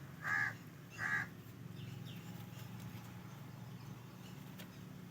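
A crow cawing twice in quick succession about a second in, over a faint steady low hum.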